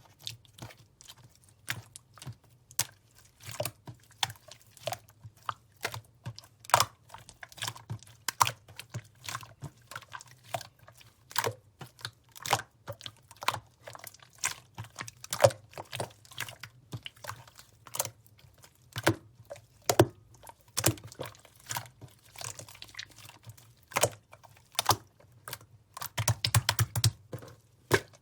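Slime being squished and pressed by hand, giving a continuous run of irregular sharp clicks and wet pops, a couple a second, crowding together into a rapid flurry near the end.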